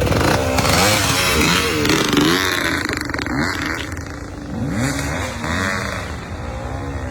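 Off-road dirt bike engines revving hard, their pitch rising and falling again and again as the throttle is worked. The revving is loudest in the first couple of seconds.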